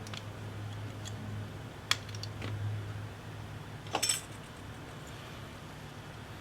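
Small hard clicks and taps of tools and parts being handled during a tablet repair: a sharp click about two seconds in and a quick run of clicks about four seconds in, with fainter ticks between, over a steady low hum.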